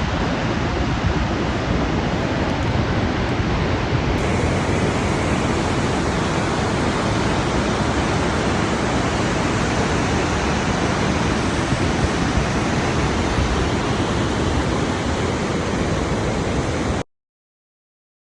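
Steady rush of the Vøringsfossen waterfall, an even wall of noise that cuts off suddenly near the end.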